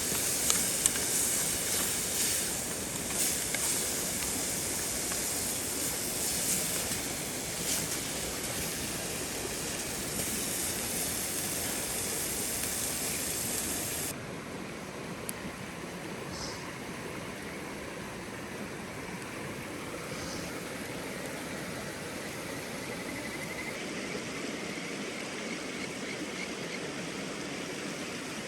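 Mountain stream rushing steadily, with a campfire crackling and popping in sharp clicks through the first half; the sound changes abruptly about halfway in, after which only the stream's steady rush remains.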